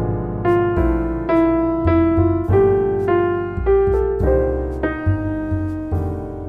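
Piano music: a slow melody of struck notes, each fading away, over low bass notes.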